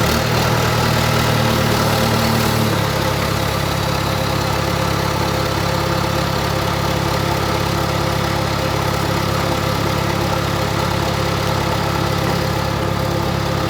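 Engine running steadily. Its note drops to a lower, slightly quieter speed about three seconds in and then holds.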